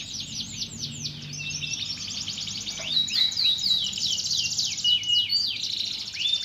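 Domestic canary singing a fast, rolling song of rapid trills and repeated down-sweeping notes, growing louder about halfway through.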